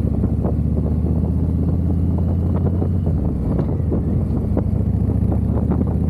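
Harley-Davidson V-twin engine running steadily as the motorcycle rides along, with scattered short knocks over the low engine note.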